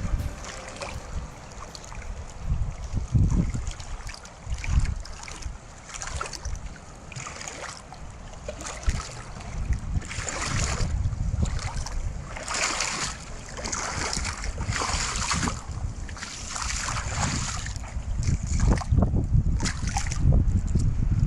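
Wind buffeting the microphone with a low rumble, while ocean surf washes in, several swells of wave noise in the middle stretch.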